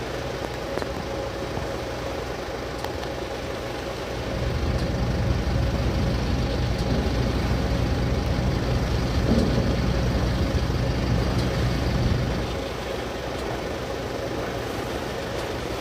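Cable ferry's engine running with a steady hum. A deeper rumble swells about four seconds in and eases off about eight seconds later.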